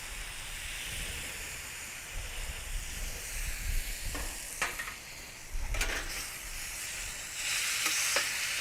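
Chicken and onions sizzling on a hot griddle pan just after soy sauce is added, with a spatula scraping and clicking against the pan a few times as they are stirred. The sizzle swells near the end.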